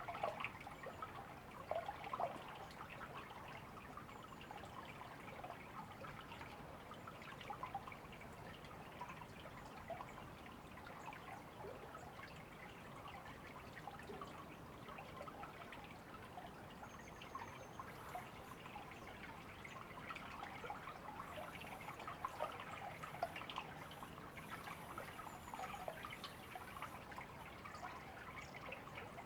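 Shallow river babbling and trickling steadily.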